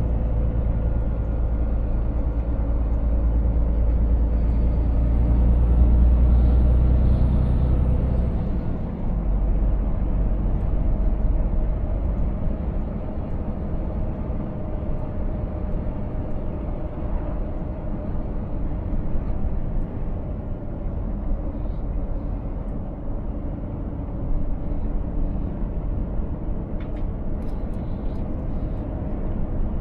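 Scania S 500 truck's diesel engine running steadily while driving, with road noise, heard from the cab. The deep engine rumble drops off about nine seconds in.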